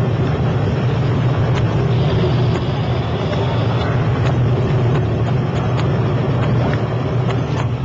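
Patrol boat's engine running steadily under way: a constant low drone with a wash of water and wind noise over it.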